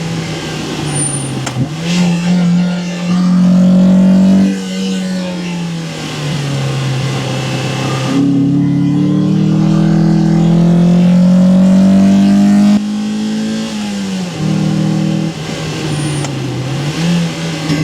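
1998 Mazda MX-5 Miata (NB) stock 1.8-litre four-cylinder engine, heard largely through its intake, pulling hard under spirited driving: the pitch climbs through the revs, loudest in a long pull from about 8 to 13 seconds that cuts off abruptly, with a shorter pull ending about 4 seconds in.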